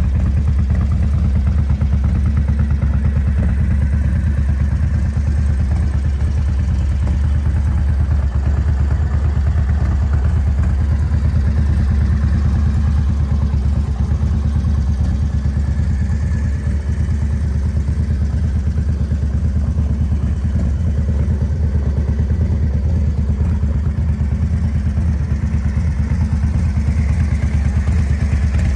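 Big Dog custom chopper's V-twin engine idling steadily, with a fast, even exhaust pulse.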